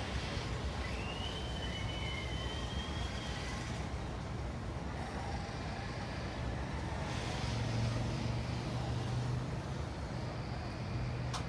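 Street traffic ambience: a steady rumble of passing vehicles, with one engine hum louder in the second half. A thin, high whistle sounds about half a second in, and a sharp click comes near the end.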